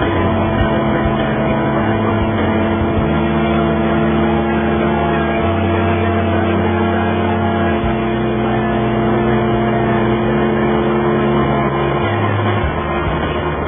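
Motorcycle engine droning at a steady cruising speed, with wind rushing over the microphone.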